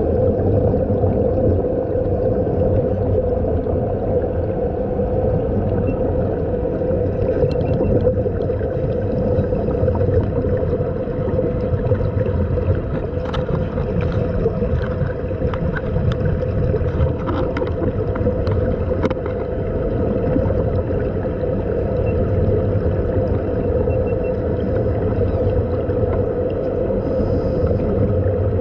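Underwater noise picked up by a camera during a shark cage dive: a steady low, muffled water rush with a constant hum, and a scatter of sharp clicks in the middle.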